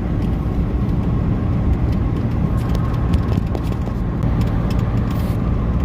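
2019 Ram 5500's 6.7-litre Cummins turbo-diesel pulling steadily under throttle on an uphill climb, a steady low drone with road noise.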